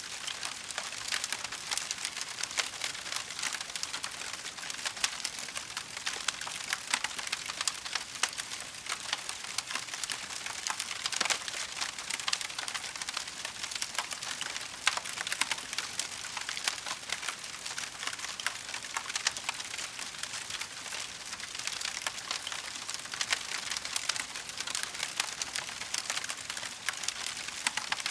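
Wood fire burning in a fireplace, crackling steadily with a dense run of small sharp pops and snaps over a soft hiss.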